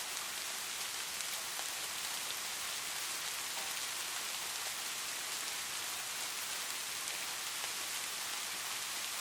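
Light rain falling steadily: an even hiss of drops, with scattered faint ticks of individual drops.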